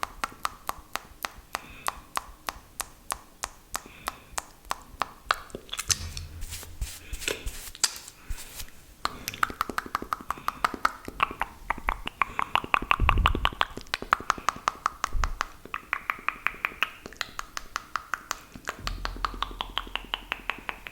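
Close-miked wet mouth sounds: quick moist clicks and smacks of tongue and lips, several a second, with the mouth's shape changing under them. A low thump comes about thirteen seconds in, and a smaller one about two seconds later.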